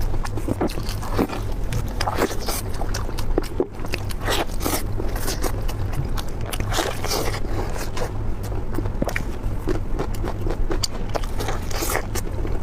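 Close-miked eating: a person biting and chewing food, with frequent short wet clicks and smacks of the mouth, over a steady low hum.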